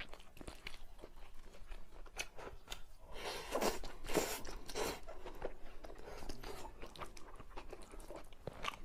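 Close-up chewing of crunchy food: a steady run of small crisp crackles, with several louder crunching bites about three to five seconds in.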